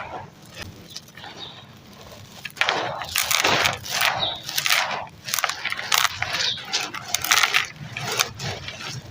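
Crunchy, gritty ash-like material being crushed and crumbled. It starts with faint scraping, then about two and a half seconds in turns into a dense run of irregular crunches.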